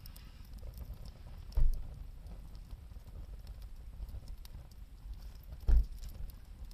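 Wood campfire crackling with scattered small pops over a steady low rumble. Two dull thumps stand out, about a second and a half in and again near the end.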